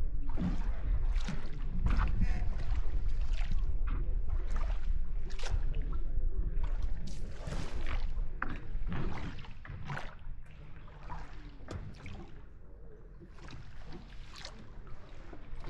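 Small boat moving on water, with repeated short splashes and knocks and a low rumble that eases about nine seconds in.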